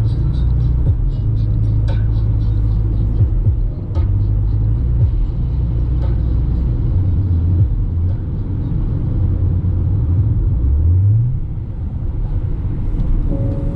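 Peugeot Expert 1.6 turbo diesel van driving on the road, heard from inside the cabin: a steady low engine drone with road rumble. The engine note shifts pitch several times and rises sharply a little before the end as the engine revs up.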